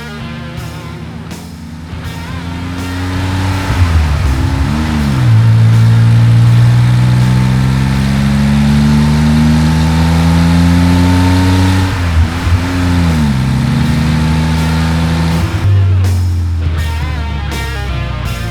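Porsche 911 flat-six engine sound accelerating through the gears: the revs climb steadily, drop at a gear change about four seconds in and again about twelve seconds in, then hold steady. Rock music plays under it at the start and near the end.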